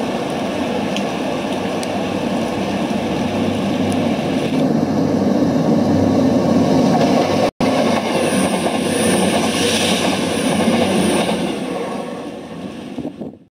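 A train running: a steady rumbling rail noise that grows a little louder through the middle, breaks off for an instant a little past halfway, and fades out near the end.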